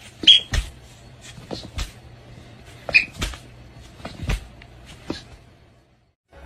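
An irregular series of sharp knocks and clicks, about a dozen over five seconds, with two short high squeaks among them.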